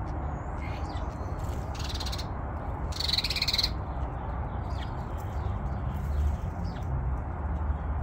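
House sparrows and a European starling calling while feeding: two short harsh calls about two and three seconds in, and faint chirps between. A steady low rumble runs underneath.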